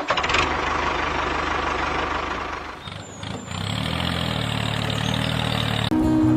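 A motor vehicle engine running steadily. It dips briefly about halfway, then carries on as a steadier low drone, and cuts off near the end.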